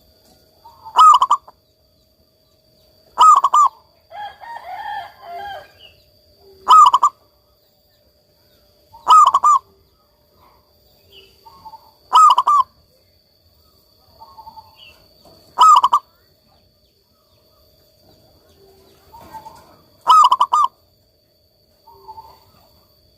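Zebra dove (perkutut) singing its cooing song: seven loud, short calls of quickly repeated notes, a few seconds apart, with fainter calls in between and a brief scratchy noise about four seconds in.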